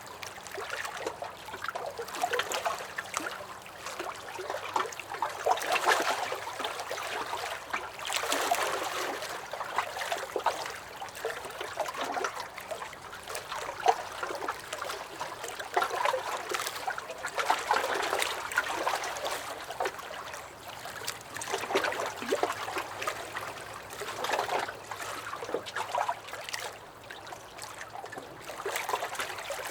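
Small lake waves lapping and splashing against a dock, in uneven swells every second or two.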